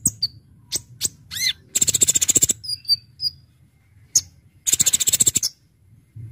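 A kolibri ninja sunbird singing: sharp high chirps and two fast rattling trills, each lasting under a second, about two seconds and five seconds in. A faint low hum runs underneath.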